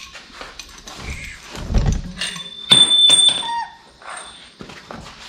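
Metal parts being handled and set down on a workbench: knocks, a dull thump, then two sharp clinks with a high metallic ring. A dog whines briefly in the middle.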